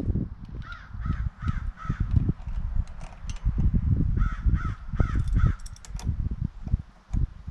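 Crow cawing in two runs of four caws, a few seconds apart, over irregular low thumps and knocks.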